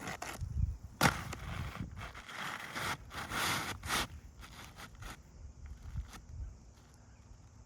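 Asphalt roof shingles being worked and pried at during a repair: intermittent scraping and crackling of the gritty shingle surface, with a sharp click about a second in and a cluster of short scrapes around the middle.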